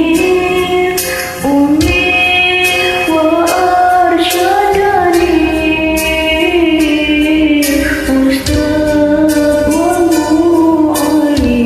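Karaoke singing: a voice holding long, slowly bending notes over a music backing track.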